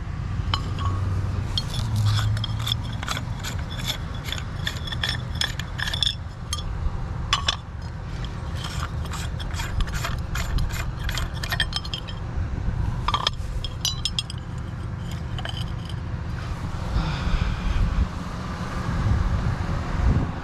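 Chandelier parts clinking and rattling in quick clusters of sharp, ringing clicks as they are handled and worked loose, over a steady low rumble.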